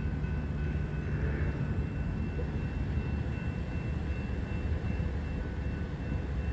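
Low, steady rumble of a train approaching along the line, with faint steady high ringing tones, likely from the grade-crossing signals ahead.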